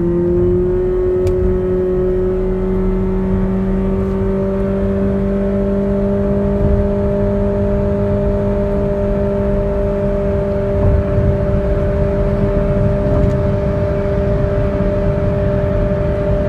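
Toyota Vios's 1.5-litre 2NR four-cylinder engine at full throttle, fitted with an aftermarket exhaust and heard from inside the cabin. Its note climbs briefly, then holds at one steady high pitch near 6,000 rpm while road speed keeps rising: the CVT holding the engine at its peak revs.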